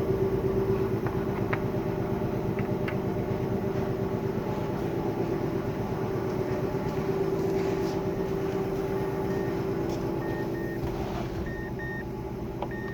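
Mazda Demio's 1.3-litre four-cylinder ZJ-VE petrol engine running steadily, most likely at idle, with no muffler fitted. A few short high beeps sound in the last few seconds.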